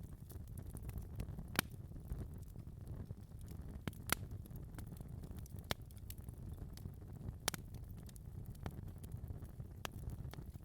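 Wood fire burning in a fireplace, a low rumble of flames with irregular sharp crackles and pops, a few louder snaps spaced a second or two apart.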